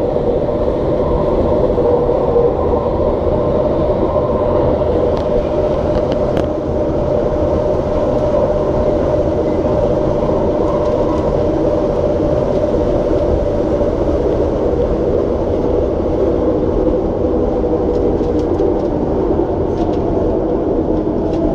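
SkyTrain car with linear induction motors running at a steady speed on the elevated guideway, heard from inside the car: a continuous rumble with a steady whine at one pitch.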